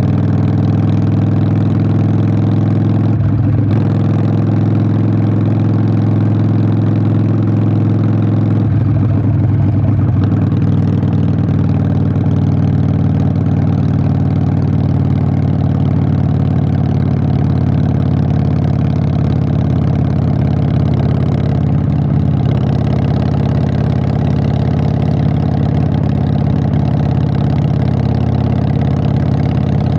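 Harley-Davidson Sportster 883's air-cooled V-twin running steadily through Vance & Hines Short Shots exhaust, with brief changes in the engine note about three seconds in and again about nine seconds in.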